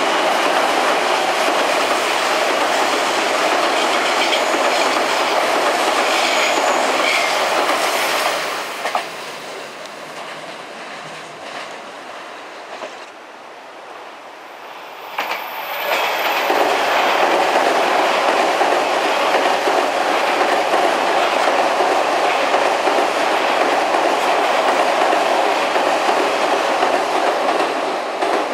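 Odakyu electric train crossing a railway bridge, its wheels clattering over the rail joints. The noise falls away about eight seconds in, with a few sharp clicks in the quieter stretch, and builds up loud again around sixteen seconds.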